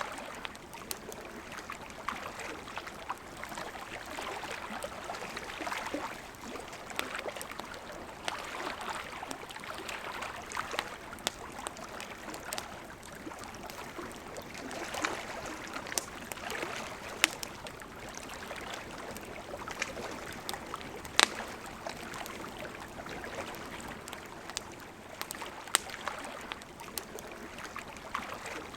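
Campfire crackling, with irregular sharp pops and snaps, over the steady rush of a flowing river.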